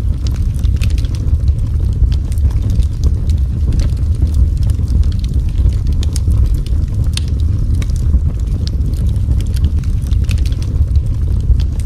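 Wood fire burning in a fireplace: a steady low rumble with many scattered sharp crackles and pops.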